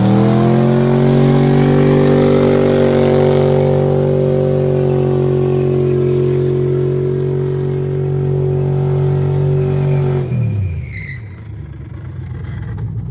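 Car engine revving up and held at steady high revs for about ten seconds, then dropping off quickly, with a few short high squeaks as the revs fall.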